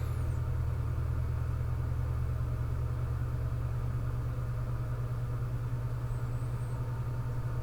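A steady low hum with no change in level or pitch.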